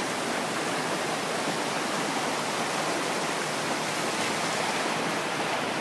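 Steady rush of flowing water from a creek and waterfall, an even unbroken sound.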